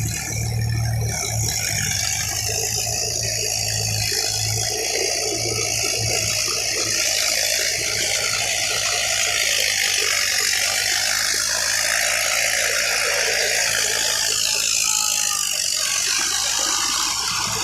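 Diesel tractor engine running with a rattle. Its low hum is strong for the first few seconds and then falls away, leaving a steady high hiss.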